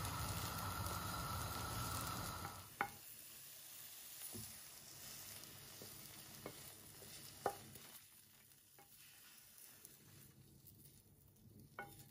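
A steady sizzling hiss that stops about two and a half seconds in, then a quieter stretch with a handful of scattered light clicks and taps.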